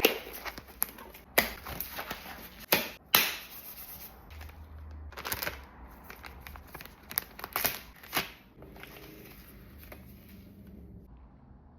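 Objects being handled at close range: an irregular series of sharp clicks and taps with brief rustling scrapes, thinning out after about eight seconds.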